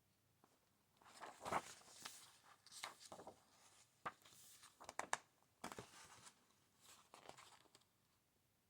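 Faint rustling of paper pages being handled and turned, in several short swishes with a few sharp clicks in the middle.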